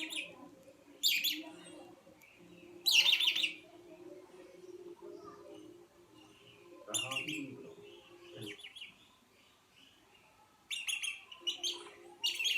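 Red-rumped parrots chirping in short bursts: calls about one second in, a louder one about three seconds in, another about seven seconds in, and a quick cluster of chirps near the end.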